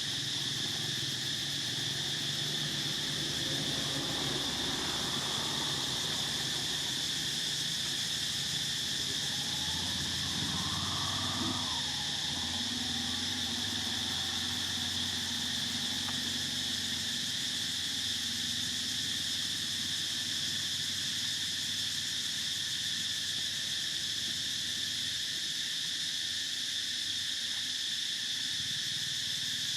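Steady, high-pitched drone of an insect chorus, with fainter low, shifting background sounds underneath in the first half.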